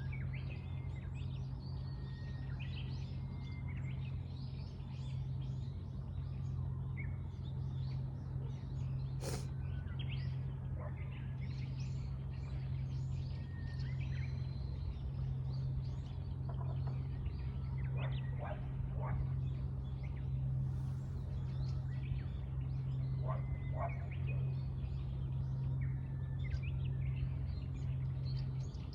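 Many small birds chirping and calling in short, overlapping notes throughout, over a steady low hum. A single sharp click sounds about nine seconds in.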